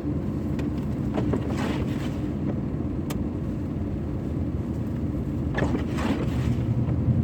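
Pickup truck driving: a steady low engine and road rumble, with a few faint short ticks and swishes above it.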